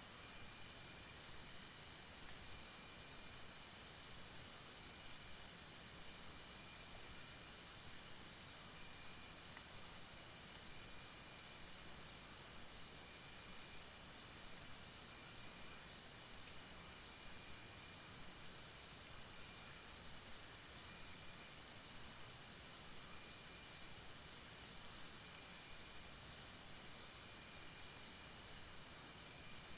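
Faint night insect chorus: crickets and other insects trilling steadily in a high, pulsing drone, with short, even higher chirps every second or two.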